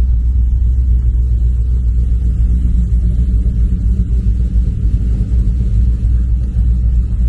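Steady low road and engine rumble of a vehicle on the move, with no distinct events.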